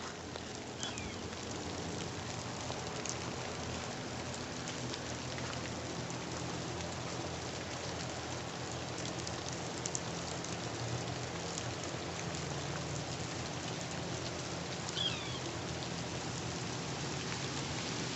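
Steady rain falling and pattering on surfaces, with a few separate louder drips.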